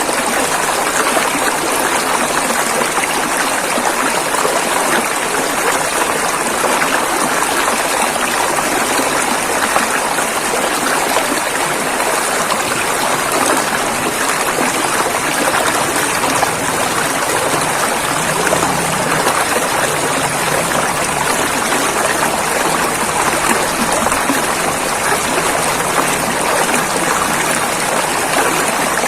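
A river flowing over rocks: a steady rushing and splashing of water, unchanging throughout.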